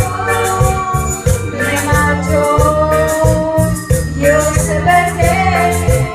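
Karaoke singing: a voice singing over a Latin backing track, with a pulsing bass line and a shaker keeping the beat.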